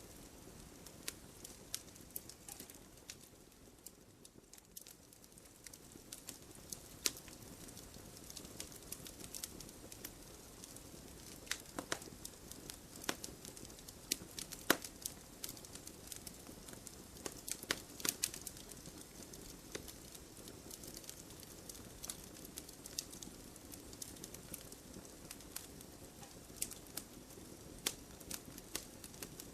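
Firewood burning in a fireplace: irregular crackles and sharp pops over a soft, steady hiss, with a few louder snaps around the middle.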